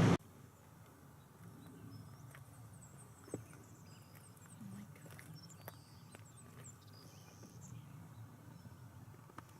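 Faint, high-pitched bird chirps, short notes repeated over and over, over a low outdoor background rumble, with a few soft clicks and one sharper click about three seconds in.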